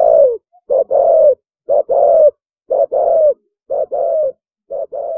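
Spotted dove cooing: a repeated two-note coo, a short note then a longer one that falls slightly at its end, about once a second, the last phrases a little quieter.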